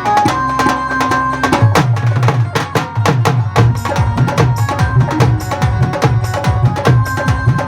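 Live band playing during a sound check, with drums to the fore: a few held melodic notes open it, then about a second and a half in a steady drum beat with deep low hits sets in and keeps a regular rhythm.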